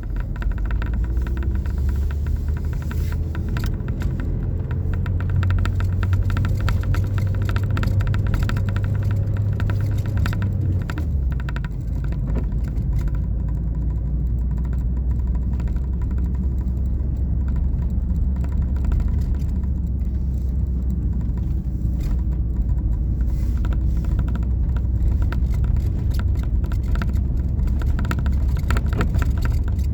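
Steady low rumble of a moving vehicle, dropping slightly in pitch about eleven seconds in.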